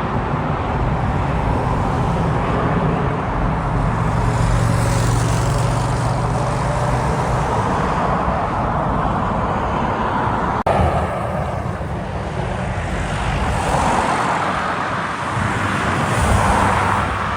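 Jet airliner engines running loud and steady, with a split-second break about two-thirds of the way through.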